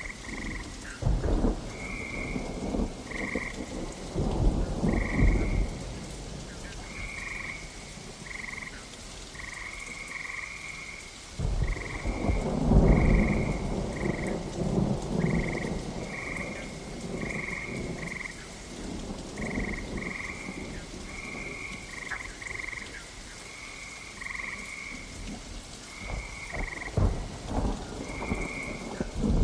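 Steady rain with rolls of thunder, the longest and loudest about a third of the way in, while frogs croak in short, quickly repeated calls throughout.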